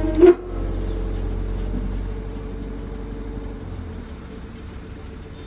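A vehicle engine running steadily with a low rumble that fades about four seconds in, after a brief loud sound near the start.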